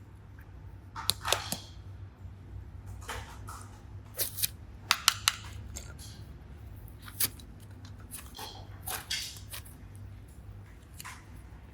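Slime being worked by hand, giving sharp clicking pops and short squishy sounds at irregular moments.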